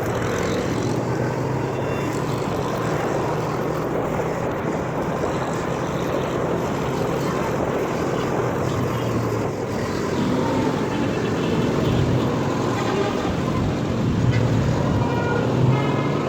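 Motorcycle running under way through city traffic, a steady engine hum under road and wind noise that grows louder about two-thirds of the way through. Near the end come a few short high-pitched tones from the traffic.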